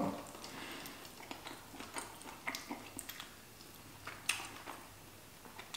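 Faint chewing: soft, scattered wet mouth clicks, with a sharper click a little past four seconds in.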